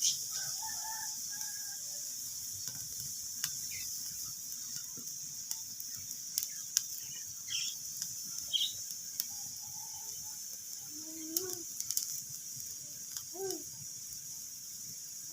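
Wood fire crackling: scattered sharp pops and snaps over a steady hiss. Several short pitched calls sound in the background near the start and in the second half.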